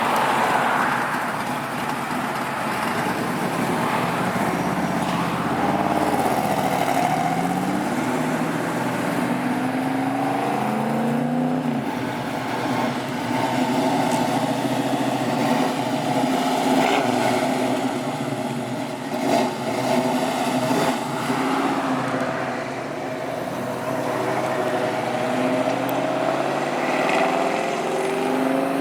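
Car engines running and being revved as cars drive past, their pitch rising and falling again and again over a steady background of traffic noise.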